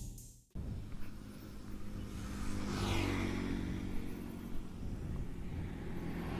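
Kawasaki Ninja 250 carburetted parallel-twin with an Akrapovic exhaust running at a steady idle. A swell in the sound rises and falls about three seconds in.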